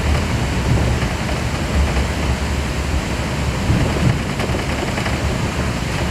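Airbus A380 airliner noise: a steady low rumble under an even hiss, with small swells.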